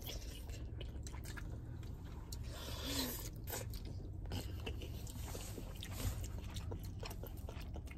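A person chewing food close to the microphone, with soft wet mouth noises and small clicks, over a steady low hum.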